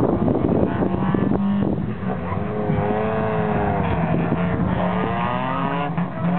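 Car engine revving hard around an autocross cone course, its pitch climbing and falling several times as the driver accelerates and lifts between cones, over a steady low hum.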